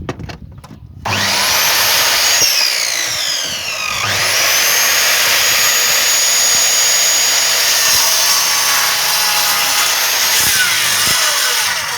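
Electric power saw running and cutting wood, a high motor whine over rasping cutting noise. It starts about a second in, falls away for a moment around three seconds, climbs back and runs steady, dips briefly near the end, then stops.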